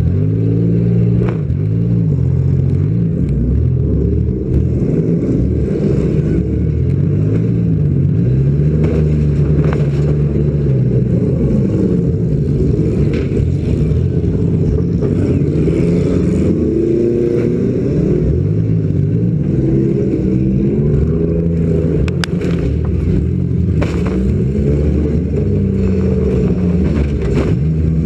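Demolition derby car's engine running and revving up and down as it drives around the arena. Several sharp knocks and clatters are scattered through it.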